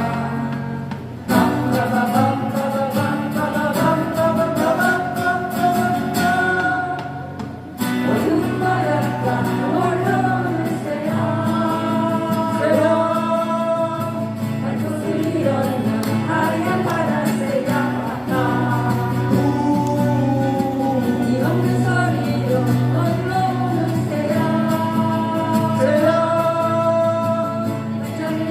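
Live acoustic-guitar band music: voices singing a melody over strummed acoustic guitars.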